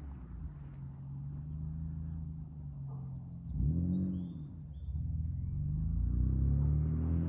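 BMW S50 inline-six with Schrick 264/256 camshafts, running at a steady idle. About halfway through it is blipped once, the pitch rising and falling, and near the end the revs climb slowly.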